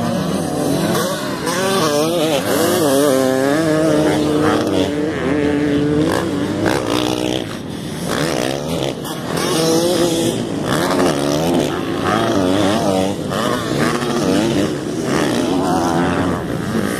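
Motocross bikes racing on a dirt track, their engines revving hard and easing off through the corners and jumps, the pitch rising and falling over and over. More than one bike is heard at once, their engine notes overlapping.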